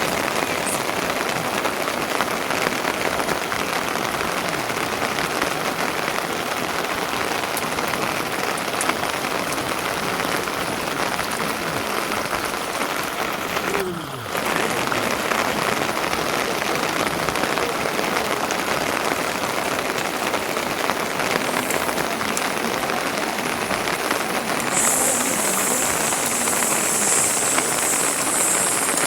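Steady rain falling, an even hiss with a brief dip about halfway through. A higher hiss joins for the last few seconds.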